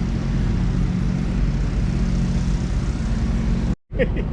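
A vehicle engine running steadily at idle, a constant low hum. The sound cuts out abruptly for a moment near the end, and faint voices follow.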